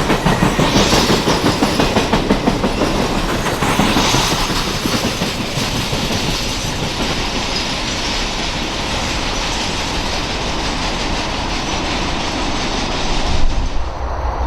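Norfolk Southern Triple Crown RoadRailer train rolling past, its wheels clicking rhythmically over rail joints. There is a brief louder peak near the end, where the sound changes abruptly.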